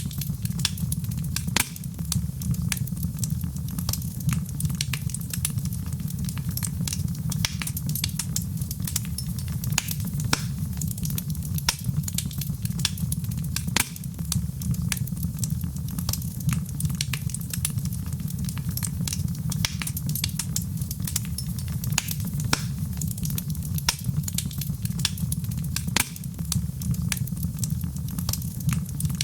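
Wood fire in a fireplace burning with a steady low rumble and frequent irregular crackles and pops.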